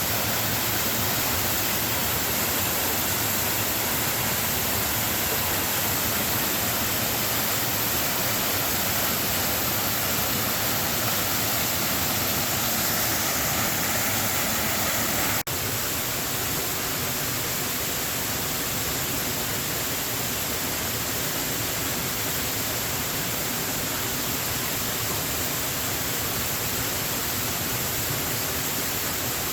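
Small waterfall pouring steadily, an even rush of falling water. About halfway through it dips for an instant and settles slightly quieter.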